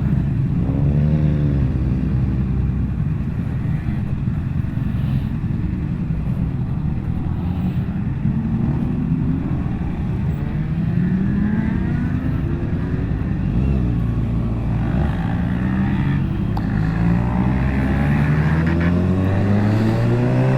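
Motorcycle engines riding in a convoy: several engines running together, their pitch repeatedly rising under acceleration and dropping between gears, with one engine climbing steadily in pitch near the end.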